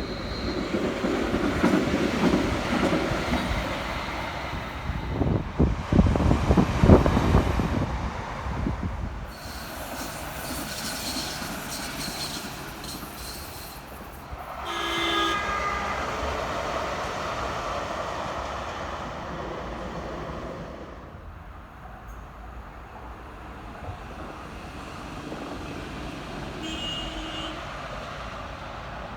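Light-rail trams passing on street track: a loud pass-by with rumble and rail clicks for the first nine seconds, then quieter running noise with a high hiss. A short warning tone sounds about halfway through, and a fainter one near the end.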